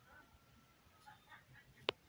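Quiet outdoor background with a few faint bird-like calls, and one sharp click near the end.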